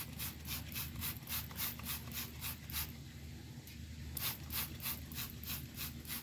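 Trigger spray bottle squirting bleach onto an air-conditioner air filter, with quick repeated hissing squirts about three or four a second, over a low steady hum.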